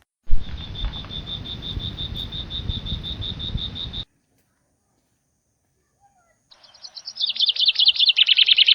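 Wind rumble on the microphone under a steady run of high chirps, about six a second, that cuts off abruptly; after a short silence a bird sings a fast, loud trill of rapid high notes that builds up near the end.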